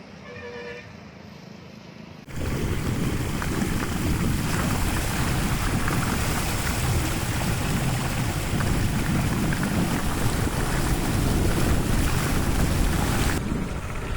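Floodwater rushing loudly and steadily, starting abruptly about two seconds in.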